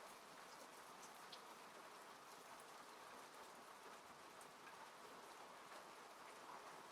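Rain falling on a car, heard from inside the cabin: a faint, steady hiss with scattered small drop ticks.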